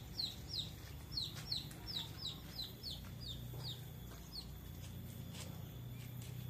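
A small bird chirping over and over: short, high notes that fall in pitch, about three a second, thinning out and stopping about four and a half seconds in. A low steady hum runs underneath.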